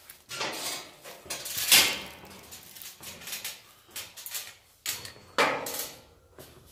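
A metal roll-up storage-unit door being opened, in several rattling, scraping bursts with sharp clicks, the loudest about two seconds in and another near five and a half seconds.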